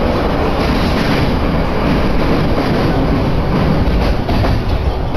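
Tokaido Line commuter train running along the track, heard from inside the carriage: a steady, loud rumble of wheels on rail and running noise.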